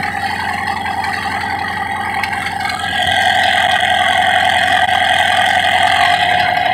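Engine of an H5 light aircraft running steadily at idle during a ground run, getting louder about three seconds in.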